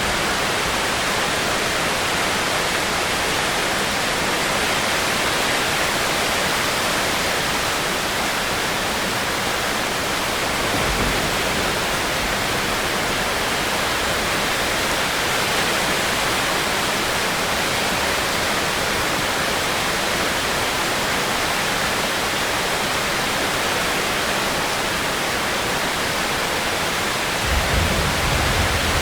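Steady rainstorm rain hiss, even throughout, with a brief low rumble about eleven seconds in and a louder low rumble near the end.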